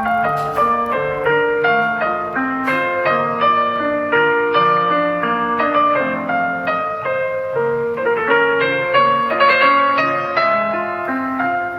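Samsung Galaxy ringtone: a piano-like keyboard melody of quick, evenly paced notes over lower chord notes, playing continuously.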